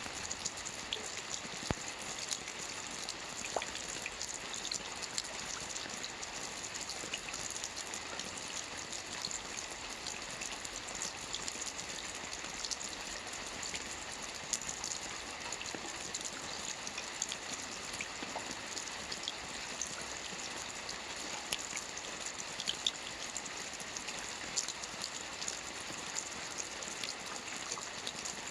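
Steady rain falling on water: a continuous hiss with many small drop ticks scattered through it.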